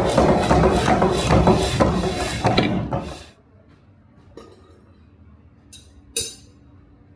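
Dense scraping and clattering of hand metalworking on steel, which stops about three seconds in. A few light clinks follow, the last the loudest.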